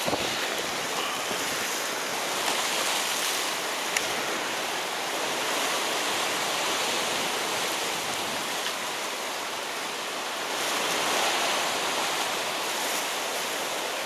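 Sea surf washing on the shore, a steady hiss that swells twice, with a single light click about four seconds in.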